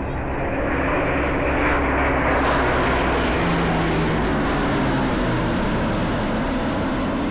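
A fixed-wing aircraft's engines running loud and steady.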